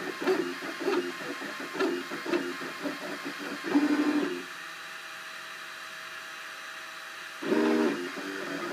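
Cubify 3D printer's stepper motors whining in short pitched notes as the print head moves, then a louder held tone. After that comes a quieter stretch of steady hum for about three seconds, and a brief loud tone near the end before the short moves start again.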